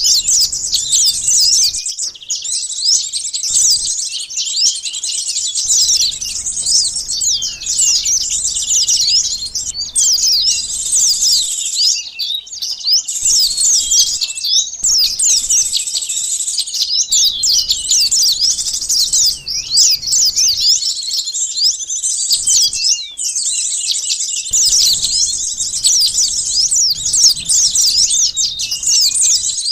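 Sunbirds calling in a dense, noisy chorus of rapid, high, overlapping chirps and twitters, with a few short breaks. The recording is a bird-lure track used to attract wild sunbirds.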